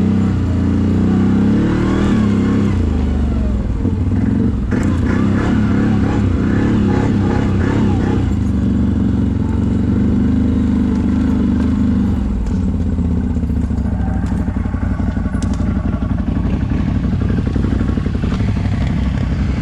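CFMoto ATV engine running while the quad creeps down a steep slope on engine braking, its pitch drifting up and down. A few knocks and rattles from the machine going over rough ground, and after about twelve seconds the engine settles to a lower, steadier note.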